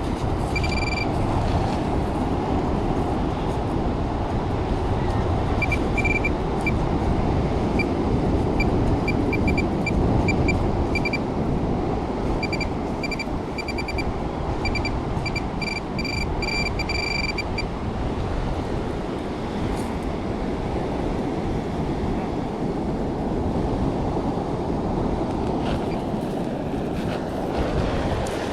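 Metal detector giving short, high beeps in irregular clusters as it is swept over the sand, stopping about two thirds of the way through, over a steady rumble of wind on the microphone and surf.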